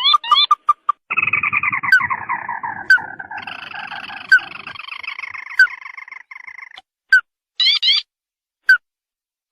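Ruddy-breasted crake calls: a few quick rising notes, then about a second in a fast trill that falls in pitch over several seconds, overlapped by a second trill, and a few spaced single notes near the end. A low rustle sits under the first trill.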